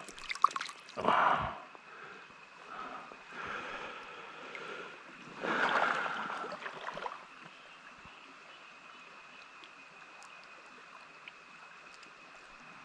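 Creek water running steadily, with a few short noisy bursts in the first seven seconds, the loudest about six seconds in, while a small hooked trout is brought in and landed.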